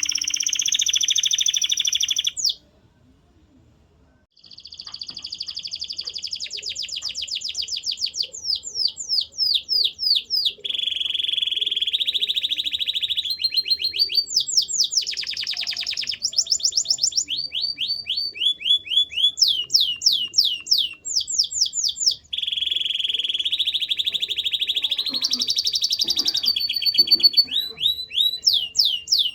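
Male canary singing: long phrases of fast repeated notes and buzzing rolls, broken once by a pause of about two seconds near the start.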